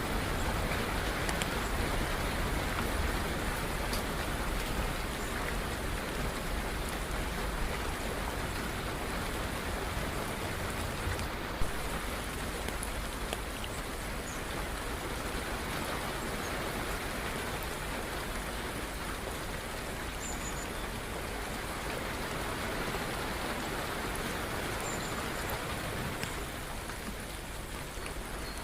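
Steady rainfall, an even hiss of drops, with a low rumble of thunder fading away in the first few seconds. A single sharp tick about twelve seconds in.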